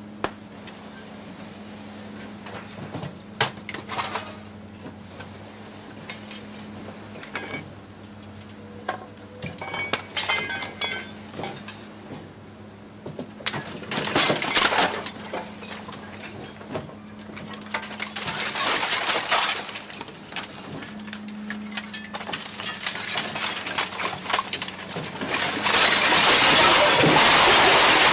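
Glass breaking and clinking in repeated bursts over a steady low hum, building to a long, loud crash of glass near the end.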